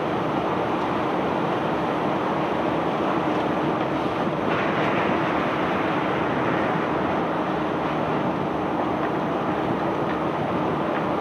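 Self-unloading barge's discharge machinery running steadily: a continuous rumbling clatter with a steady low hum. About four and a half seconds in, the hissing upper part of the sound grows louder and stays that way.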